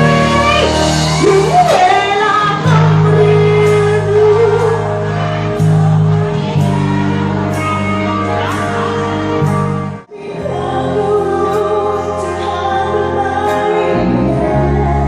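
Band music with a singer and steady percussion. The sound cuts out for a moment about ten seconds in, then the music resumes.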